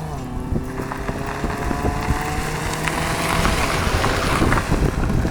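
Car engine pulling and rising in pitch as the vehicle accelerates, under steady wind and road noise.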